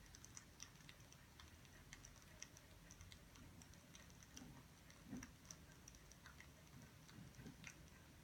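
Faint crackling of a wood fire: small irregular pops and snaps over a low hum.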